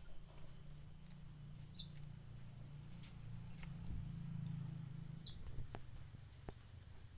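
Birds calling, with a short falling note heard twice about three and a half seconds apart, over a steady high-pitched ringing and a low rumble.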